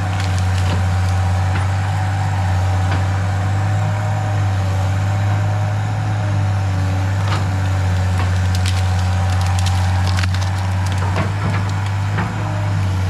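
Cat 318B excavator's diesel engine running steadily under load, with wood cracking and splintering at intervals as the machine breaks through brush and trees.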